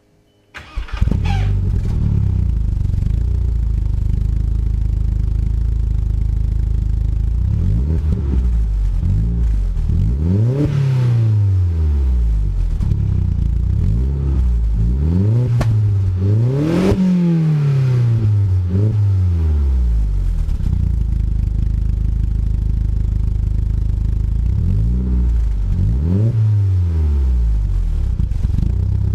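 A 2001 VW Jetta's 1.8-litre turbocharged four-cylinder engine starts about a second in and idles through a new 3-inch turbo-back exhaust. It is revved several times, each rev rising and falling in pitch.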